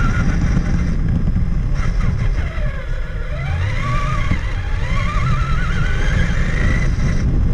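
Traxxas Summit RC truck's electric motor and gear drive whining, the pitch rising and falling as the truck speeds up and slows. The whine dips low about three seconds in and then climbs steadily. Under it is a steady low rumble of the chassis and tyres over the ground.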